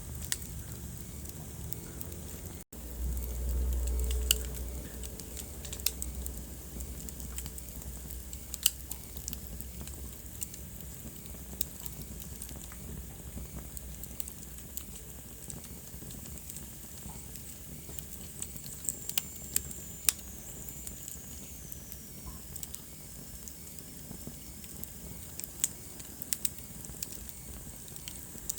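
Wood fire burning in a fireplace, crackling with frequent sharp pops over a steady hiss. After a momentary dropout about three seconds in, a low rumble of the flames runs for a few seconds, and a faint falling whistle comes about two-thirds of the way through.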